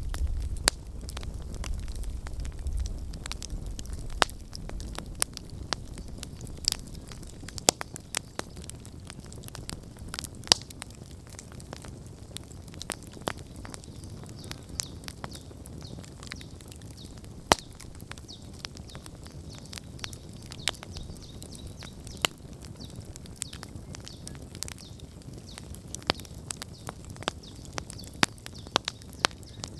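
Wood campfire crackling, with irregular sharp pops and snaps over a faint hiss of the burning fire. A low rumble fades out over the first few seconds.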